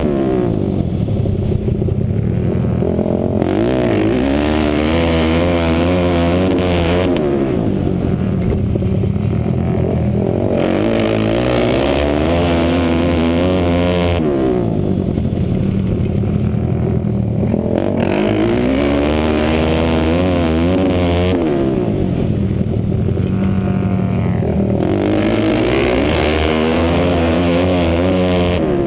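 Motorcycle engine heard from the rider's helmet, rising in pitch as it revs up along each straight and dropping back through each turn, a cycle repeating about every seven seconds as the bike laps a small dirt flat-track oval.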